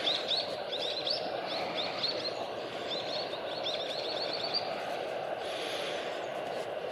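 Small birds chirping in a quick series of short, high notes that stop about two-thirds of the way through, over a steady background rumble.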